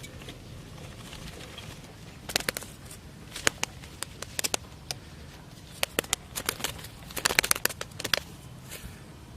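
Irregular clusters of sharp clicks and taps, several in quick succession each time, over a steady low background.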